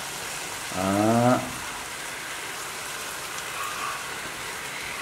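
Chicken, tomato and shredded cabbage frying in a pot on the stove: a steady sizzle. A short word is spoken about a second in.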